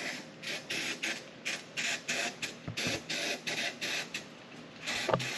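Undercoating being sprayed up inside a truck's rocker panel in short, rapid hissing bursts, about two to three a second, with a brief pause near the end.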